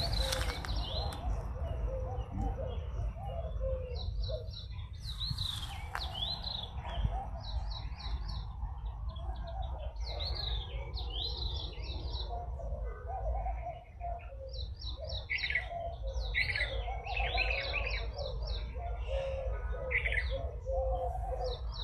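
Birds chirping: runs of short, quickly repeated high notes, with lower wavering calls underneath and a steady low rumble.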